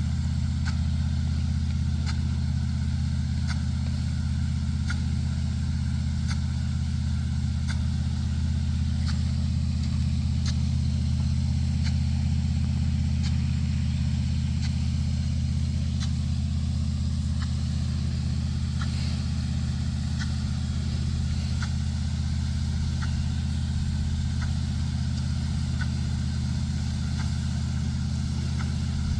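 A large engine running steadily at an even speed, with faint ticks at a regular pace over it.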